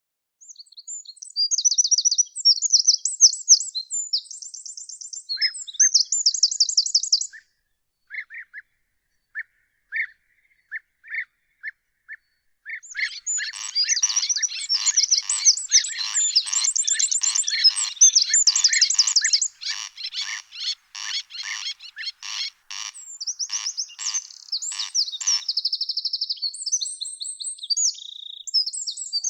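Songbirds singing, with fast high trills and warbling phrases. Through the middle runs a stretch of evenly repeated short notes, about two a second.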